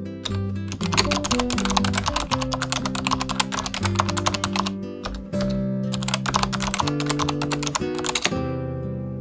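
Fast typing on the restored 1990 Acer 6311 keyboard, a dense run of key clicks with short breaks about halfway and near the end, over background music with held chords.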